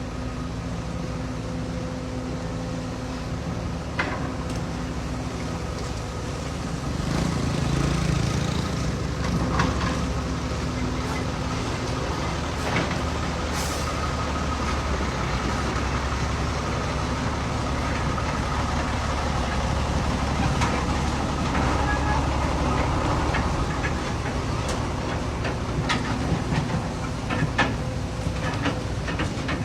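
Heavy diesel machinery running steadily, getting louder about seven seconds in, with a few short knocks near the end.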